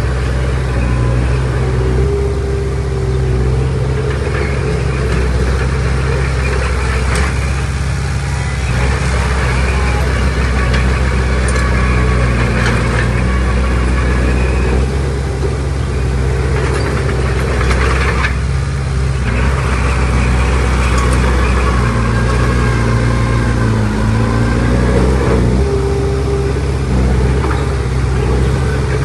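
Heavy diesel engine of earthmoving machinery running steadily, with occasional short clanks and rattles over the engine sound.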